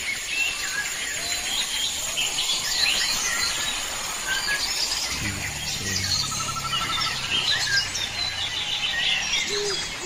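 Several small birds chirping and calling over one another in quick, varied notes, with one short rapid trill. A low rumble joins about halfway through.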